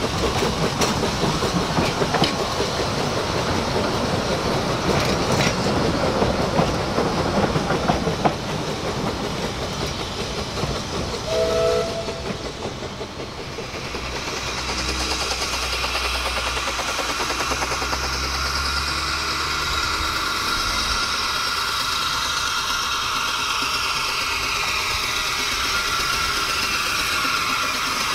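Narrow-gauge railway carriages rolling past, wheels clattering over the rail joints. A brief, short whistle is heard about halfway through. After that the sound turns into a steadier, quieter noise with a low hum.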